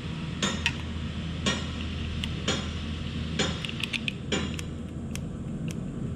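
Sharp metallic clicks about once a second, with a low steady hum under them for about four seconds, as the starter solenoid of a Kawasaki motorcycle is jumped. The starter does not turn the engine over, which the owner puts down to a seized starter, engine or transmission, most likely a wrongly installed clutch.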